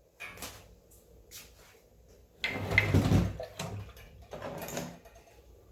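Workshop handling noises: a series of knocks and clatters, with a heavier scrape and thud about halfway through, as metal engine and pump parts are moved about on a bench.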